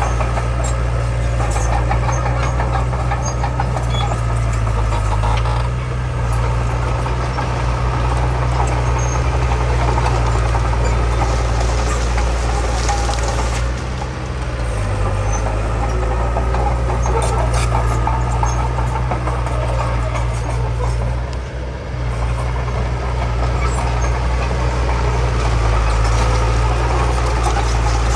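Heavy diesel earthmoving machinery, a bulldozer, running steadily under load, with scattered light clicks over the engine drone. The engine note dips briefly twice, about halfway and about three-quarters of the way through.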